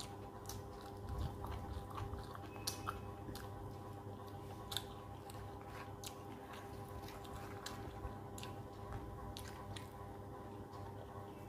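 Close-up mouth sounds of a person eating rice and fish curry by hand: quiet chewing with soft wet clicks and smacks scattered irregularly throughout, over a steady low electrical hum.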